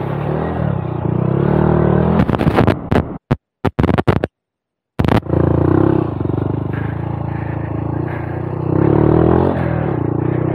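Honda Monkey 125's single-cylinder engine running at low speed on a trail, its pitch rising and falling a little with the throttle. About two seconds in the sound stutters and cuts out, dropping to silence for about half a second before the engine sound returns.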